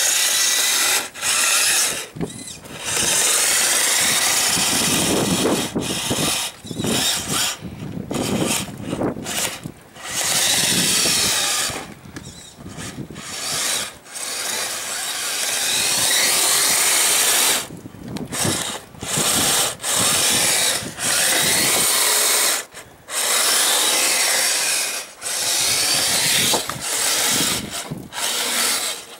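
The two small Traxxas 380 electric motors of a radio-controlled Kyosho Blizzard snowcat running in repeated throttle bursts of one to several seconds, cutting out sharply in between.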